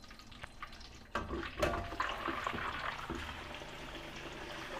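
Pieces of boiled meat going into hot oil in a frying pan: about a second in, a steady sizzle starts and holds.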